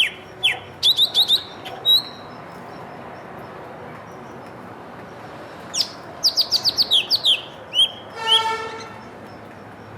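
Small songbirds chirping: a few quick descending chirps, then after a pause a rapid run of them. Just after eight seconds comes a brief, buzzy, honk-like pitched call.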